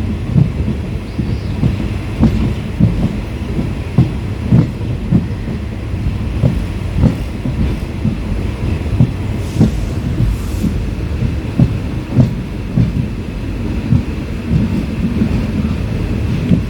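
Passenger train running at speed, heard from inside the coach: a steady low rumble with the wheels clacking over rail joints, about two knocks a second.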